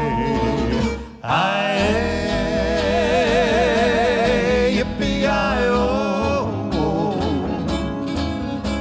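Western vocal harmony group singing a long, drawn-out "yippee-i-ay" chorus line in close harmony, the notes held with vibrato, over a country band with guitar. There is a brief break in the sound just after a second in.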